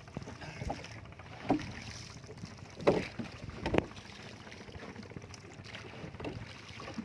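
Steady water and wind noise aboard a small boat at sea, with four short knocks spaced about a second apart, the loudest about three seconds in.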